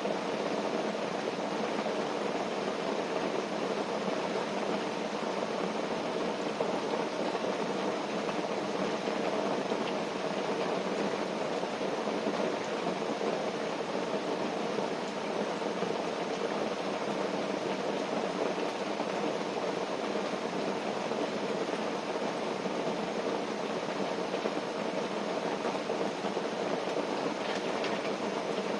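Steady rain falling on a tent, heard from inside as a dense, even patter.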